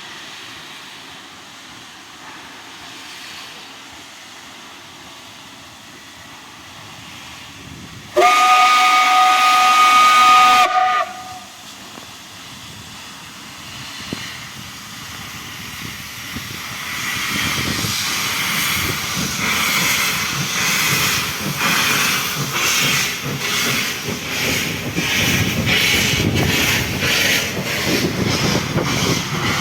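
Steam locomotive L-5170, a Soviet L-class 2-10-0, gives one loud steady whistle blast of about three seconds over a soft hiss of steam, then pulls away: its exhaust chuffs build up in the second half at about two a second.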